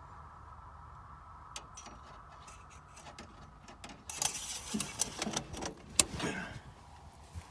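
Faint steady hum, then a couple of seconds of metallic rattling and clicking, with a sharp click about six seconds in, as a dipstick is handled in its tube under the hood.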